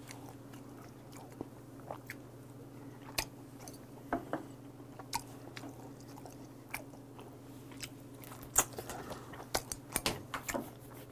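Close-miked eating sounds: a man chewing raw tuna and shrimp sashimi, with wet mouth sounds and scattered sharp clicks that come thicker near the end, over a steady low hum.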